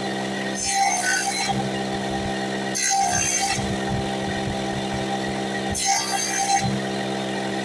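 A woodworking power tool runs with a steady hum. Three short bursts of cutting come about every two and a half seconds.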